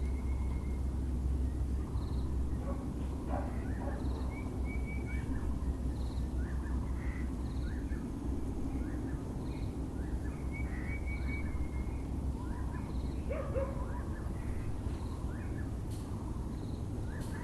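Several birds calling at once, including the Muller's (Taiwan) barbet, with many short chirps, a few brief trills and a faint high note repeating about every two seconds, over a steady low city rumble.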